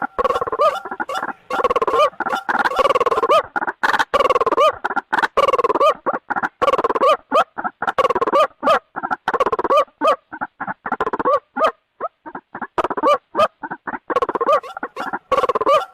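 White-breasted waterhen (ruak-ruak) calling: loud, rapid runs of short repeated notes that bob up and down in pitch. The runs break into spaced single notes past the middle, nearly stop for a moment, and pick up densely again near the end.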